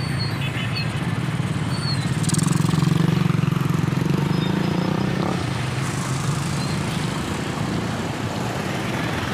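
A motor vehicle's engine running close by in road traffic, loudest about two to four seconds in and dropping away about five seconds in, over steady road noise.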